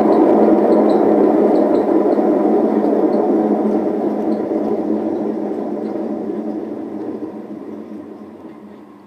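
Hotpoint WM74 washing machine drum spinning with a rough rumble from worn drum bearings, fading steadily as the drum slows down.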